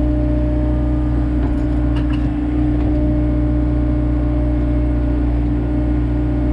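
Komatsu excavator running at a steady engine speed: a constant whine over the diesel's low hum, with a few faint clicks about two seconds in.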